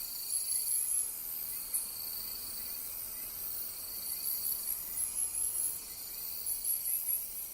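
Night insects, crickets, chirping in repeated high-pitched pulsed bouts, with a steadier lower trill coming and going and a faint even hiss beneath.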